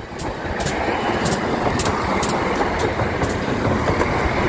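Class 170 Turbostar diesel multiple unit passing close by at a level crossing, its running noise rising over the first second and then holding loud. Sharp clicks come about twice a second as the wheels cross the rail joints.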